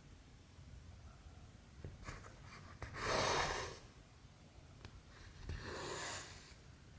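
Cotton embroidery thread being drawn through cross-stitch fabric twice, each pull a rasping hiss lasting under a second, the first the louder. A few light ticks come between the pulls.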